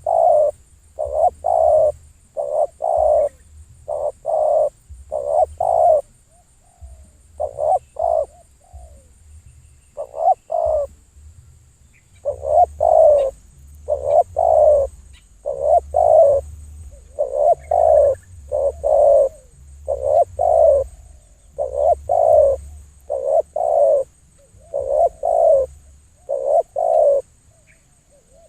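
A dove cooing over and over in short phrases of two or three low notes, a phrase every second or so. A faint steady high-pitched whine runs underneath.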